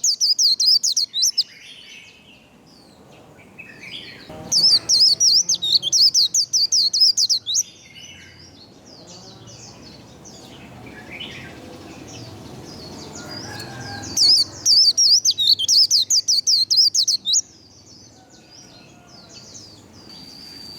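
White-eye (vành khuyên) singing its fast, high, chattering 'líu' song in three loud runs of about three seconds each: at the start, about four seconds in and about fourteen seconds in. Softer twitters fill the gaps between runs.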